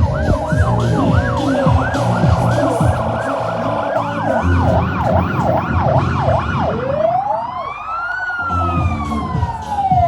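Siren-like wailing over background music with a beat. It starts with fast yelping sweeps, about three a second, which slow to wider swoops and end in one long rise and fall.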